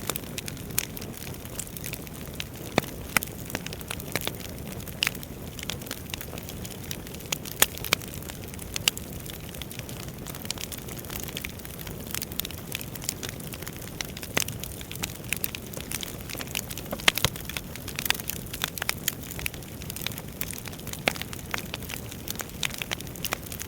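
Wood fire burning in a fireplace: a steady low rush of flame with irregular sharp crackles and pops from the burning logs, a few of them much louder than the rest.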